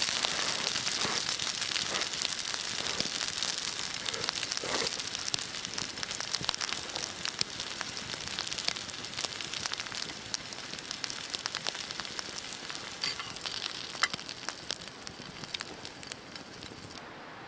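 Campfire crackling and sizzling: a dense run of sharp pops and ticks over a steady hiss, slowly dying down, the hiss cutting off abruptly just before the end.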